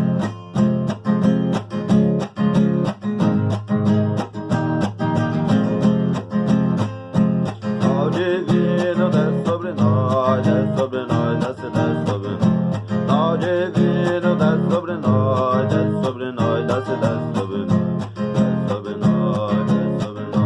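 Acoustic guitar strummed in a steady rhythm, with a voice singing a wavering melody over it from about eight seconds in.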